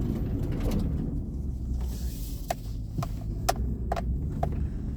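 Pickup truck in four-wheel drive running with a steady low rumble while it drives across a slick, muddy field. From about halfway through, a run of sharp clicks comes roughly twice a second.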